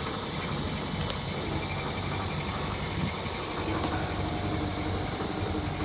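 Split air conditioner outdoor unit running steadily, its compressor now started after a new 50 µF capacitor was fitted, with a low hum under the condenser fan noise. The outer casing is off, so there is a slight shaking, vibrating noise.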